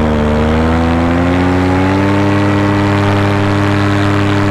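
Paramotor engine and propeller running steadily under power in cruising flight, the pitch dipping slightly at first, then rising a little over the next second or two and holding.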